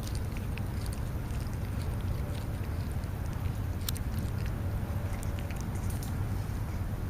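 Outdoor background noise: a steady low rumble with scattered short, high ticks, one sharper click about four seconds in.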